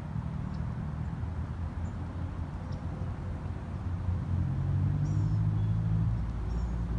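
Mazdaspeed 3's turbocharged 2.3-litre four-cylinder running with its 3-inch exhaust cutout open: a low rumble that grows louder and steadier about four seconds in. A few faint bird chirps sound above it.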